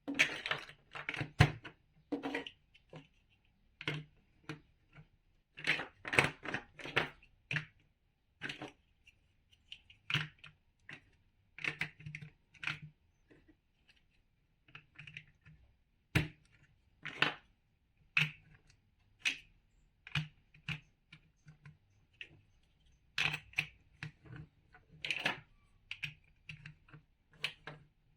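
Large plastic toy building blocks being handled, clicking and snapping together in irregular sharp clicks and short clatters.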